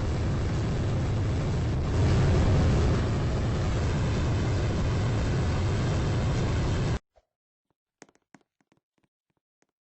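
Steady loud rumbling noise, a little louder for about a second starting two seconds in, that cuts off abruptly about seven seconds in, leaving only a few faint taps.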